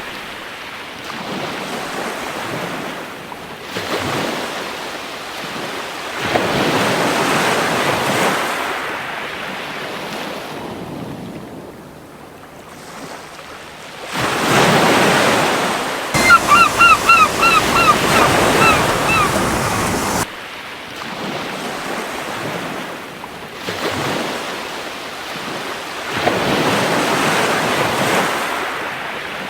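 Gentle ocean waves washing onto a beach, swelling and receding every few seconds. A little past the middle a seagull calls in a rapid run of about eight short cries.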